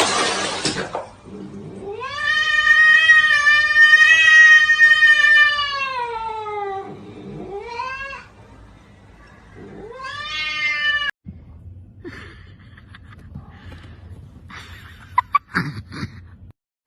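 Domestic cat yowling: one long drawn-out caterwaul that drops in pitch at its end, then two shorter yowls. A short noisy burst comes just before the first call, and the last few seconds hold only faint, scattered sounds.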